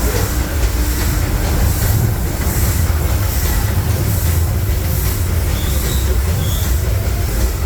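Disneyland Railroad train running along the track, heard from aboard a passenger car: a steady low rumble of the wheels on the rails, with a few short high wheel squeals in the last couple of seconds.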